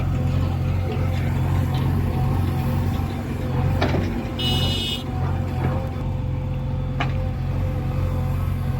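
Heavy diesel engine running steadily, with a few sharp knocks or clanks and a brief high-pitched sound about halfway through.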